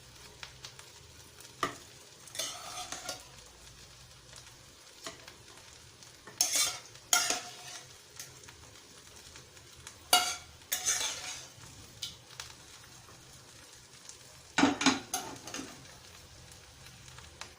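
A spoon scraping and knocking against a pot in short bursts every second or few as chicken and masala are spooned in over a layer of rice, with a low sizzle from the pot on the flame underneath.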